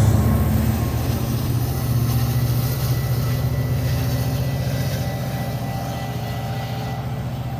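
Metra diesel commuter train running past as a steady, deep rumble with a fast pulsing beat, slowly fading as it moves away.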